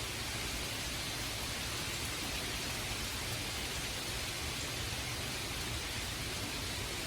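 Rain falling steadily in a sudden spring downpour: an even hiss with no breaks or changes.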